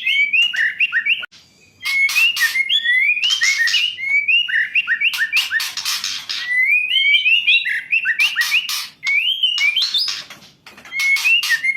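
Female white-rumped shama (murai batu) calling: quick phrases of short rising whistled notes mixed with harsh, rasping chatter calls, broken by two brief pauses, one just over a second in and one near the end.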